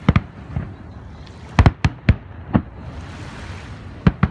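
Aerial fireworks shells bursting in a rapid run of sharp bangs, about ten in all, several coming in quick pairs and clusters.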